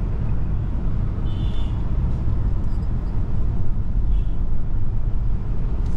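Steady road noise of a moving car: engine and tyres giving an even low rumble, with a faint short high squeak about one and a half seconds in.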